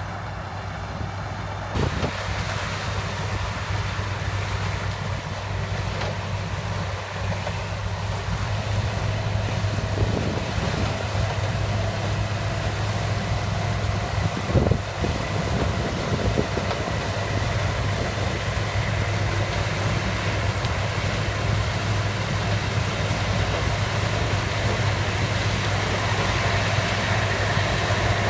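Heavy diesel machinery of a Case 7000 sugarcane harvester running steadily at work, a constant low hum with a couple of brief knocks, one about two seconds in and one about halfway.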